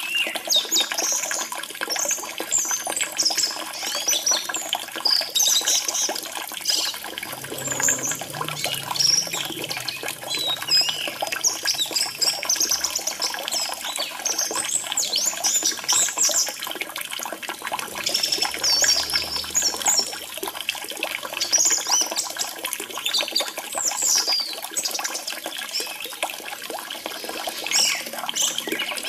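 Orange-headed thrush singing a long run of quick, high, varied phrases with short pauses, over a steady trickle of running water.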